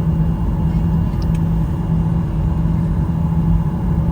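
Airliner cabin noise: the jet engines running steadily before takeoff, heard from inside the cabin as a loud, even low rumble with a steady hum.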